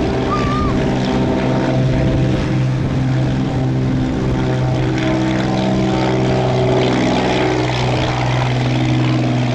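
Aero Commander 500's twin piston engines and propellers running with a steady droning hum.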